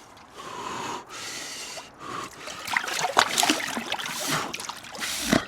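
A person gets into an ice bath: two long, hissing breaths, then from about two seconds in, water sloshing and splashing irregularly.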